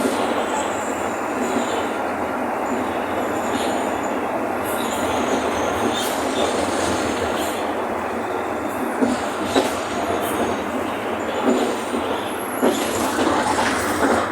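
Inside a Mercedes-Benz OF-1519 city bus on the move: steady engine and road rumble, with short sharp rattles and knocks from the body several times in the second half.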